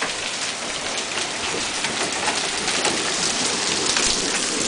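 Heavy hail pelting down, a dense steady clatter of many hailstones striking hard surfaces. The stones are large chunks.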